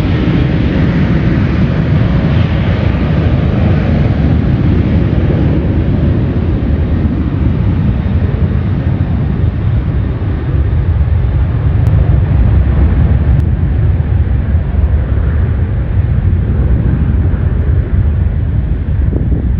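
Jet airliner's engines passing close by: a loud, steady rumble with a hissing top that slowly thins out toward the end as the aircraft moves away.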